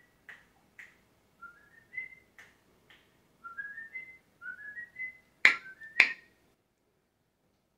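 A parrot whistling several short runs of notes that step upward in pitch, with sharp clicks between the runs and two loud clicks in quick succession toward the end.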